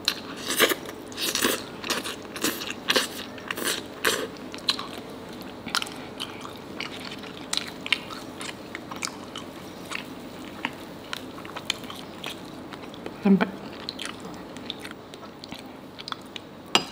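Close-miked chewing and crunching of food, with dense crisp crunches for the first few seconds, then sparser chewing clicks.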